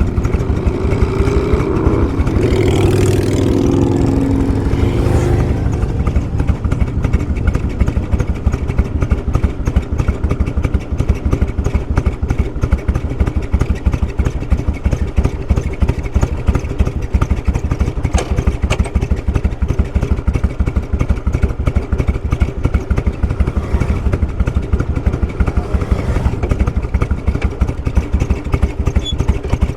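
Motorcycle engine idling with a steady, even pulse. For the first few seconds another engine's higher, steady tone runs over it, then fades out.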